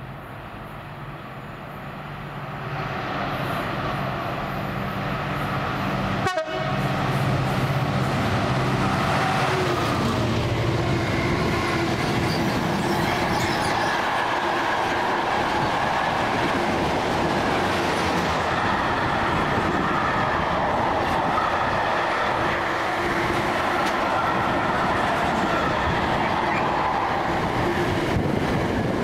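A train passing close by at speed. Its noise builds over the first few seconds, then runs as a long, steady, loud rush of wheels on rail, with a brief dropout about six seconds in.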